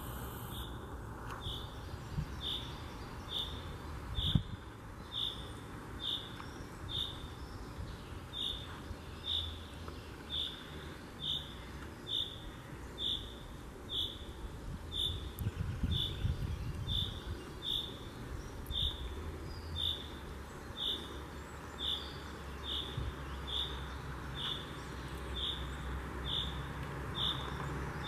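A bird in a pine forest repeating one short, high note over and over at an even pace, about three notes every two seconds.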